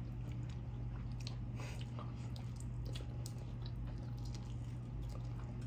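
People chewing and biting into food, with scattered small clicks, over a steady low hum.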